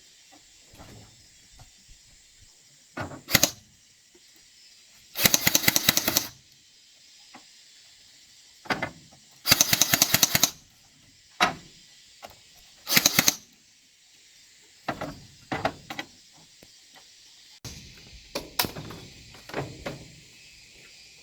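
Steady high drone of insects, broken by scattered sharp knocks and by three loud rattling bursts of rapid strikes, each about a second long.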